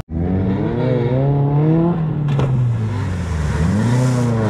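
Classic rally car engine revving hard as the car ploughs through deep mud, its pitch climbing and falling as the driver works the throttle, with a single knock about two seconds in.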